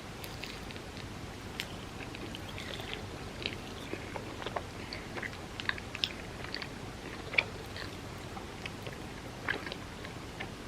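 A person chewing and biting food in their mouth, with irregular small clicks and smacks; the loudest comes about seven seconds in.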